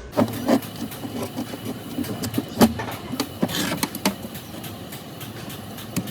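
Irregular knocks and clicks of tools and hydraulic jack parts being handled and worked on, a few louder clanks among lighter taps.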